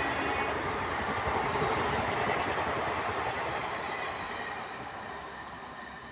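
Express passenger train's coaches passing at speed, a steady rush of wheel and rail noise that fades away over the last three seconds as the end of the train goes by.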